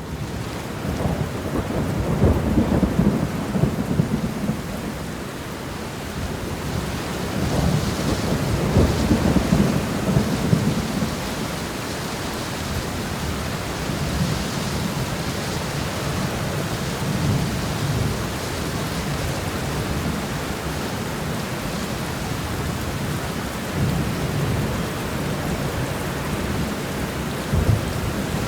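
Steady rain shower pouring down, with low rumbling swells rising and falling beneath it, strongest a couple of seconds in and again around nine seconds in.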